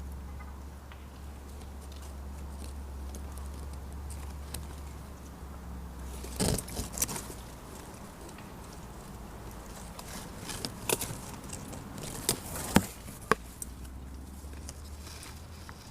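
A low steady hum, then from about six seconds in a scattering of sharp knocks and clicks, the loudest a little before the end.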